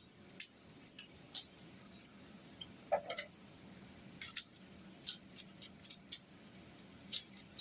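A cooking utensil clinking and scraping against a pan while fried rice is stirred: a series of short, sharp, irregular clinks.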